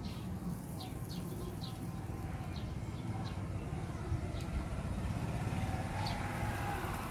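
Background ambience: a steady low hum and rumble, with short high chirps repeating every half second to second, and a faint rising tone near the end.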